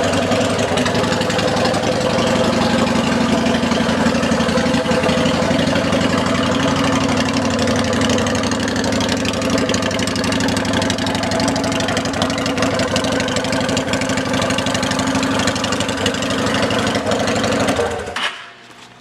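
2007 Honda Shadow Aero's 745 cc V-twin idling steadily through an aftermarket Vance & Hines exhaust, then shut off near the end.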